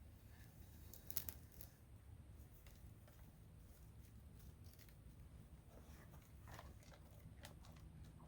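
Near silence with a low steady hum, broken by a sharp click about a second in and a few faint short ticks near the end.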